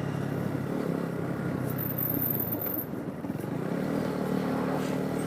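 Motorcycle engine running as the bike rides along, easing off about three seconds in and then picking up speed again.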